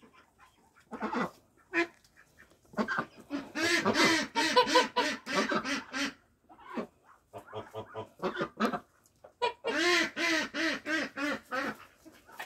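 Domestic duck quacking in rapid runs of about four or five loud quacks a second, in two long bouts with a few softer quacks between.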